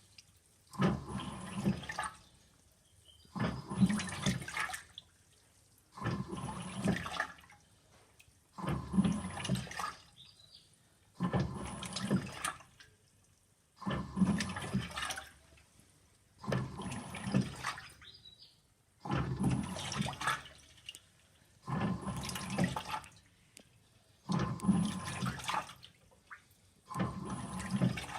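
Simpson 8.5 kg washing machine washing on its gentle delicates cycle: the load and water slosh in short strokes about every two and a half seconds, with a brief pause between each.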